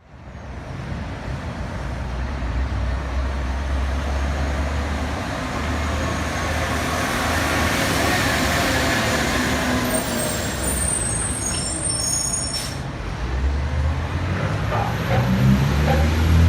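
Autocar Xpeditor garbage truck running, with a short sharp burst about two-thirds of the way through, and the engine revving up near the end.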